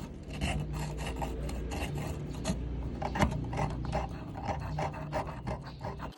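Repeated hand scraping on the lamp's rusty metal, in short rasping strokes about three a second, over a steady low hum.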